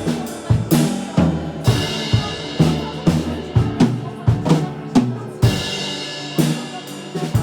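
Live worship band playing: a drum kit keeps a steady beat of bass drum and snare under sustained piano chords, with a cymbal crash about a second and a half in and another past five seconds.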